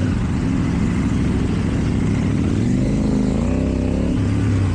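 KTM Duke 790 parallel-twin engine with an Akrapovic exhaust, running steadily at low revs as the bike moves through traffic. A brief wavering pitched sound comes in about three seconds in.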